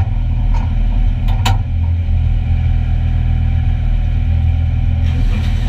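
1-litre stock car engines running at a steady, low pitch, with one sharp click about a second and a half in.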